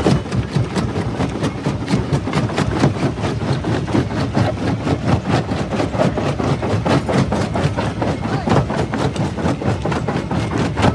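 Jaw crusher breaking stone: a rapid, continuous run of cracking and crunching over the machine's steady running.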